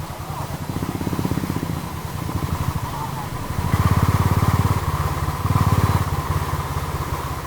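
Royal Enfield Thunderbird 350's single-cylinder engine running under way, a steady train of exhaust beats. It gets louder twice, about halfway through and again a second later, as the throttle opens.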